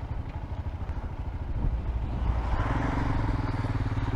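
Royal Enfield Himalayan's single-cylinder engine running under way, heard through a helmet microphone along with wind and road noise. About two and a half seconds in, the engine note steadies into a clear hum and grows a little louder as the bike pulls.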